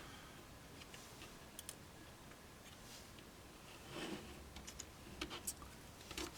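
Faint, scattered small clicks and taps of plastic model railroad parts being handled and fitted together, with a few slightly louder taps past the middle.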